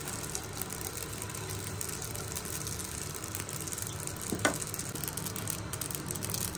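Poppy seeds sizzling and crackling in hot oil in a non-stick frying pan as a spatula stirs them, over a steady low hum. A single knock about four and a half seconds in.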